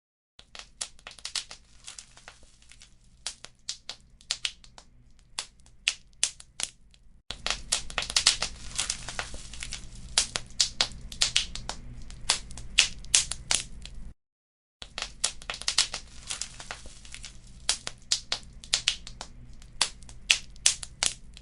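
Wood fire crackling: irregular sharp pops and snaps over a low steady rumble, sparser for the first several seconds and busier from about seven seconds on. The sound drops out to dead silence for a moment near the start and again about two-thirds of the way in.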